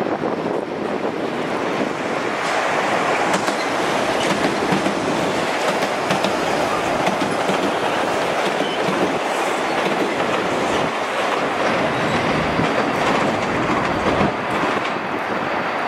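Kawasaki M8 electric multiple-unit train running through the station past the listener, a steady loud rolling noise of steel wheels on rail with scattered clicks.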